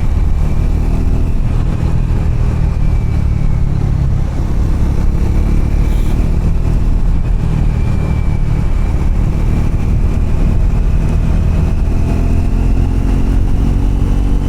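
Triumph Scrambler motorcycle engine running steadily under way, over a loud, steady low rumble.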